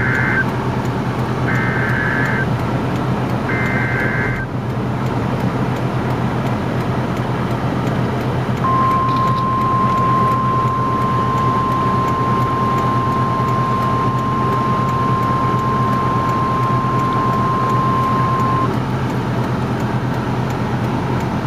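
NOAA Weather Radio emergency alert: three short bursts of warbling digital data tones in the first few seconds, then a single steady high-pitched alert tone held for about ten seconds, signalling a tornado warning broadcast. Steady road noise from the car runs underneath.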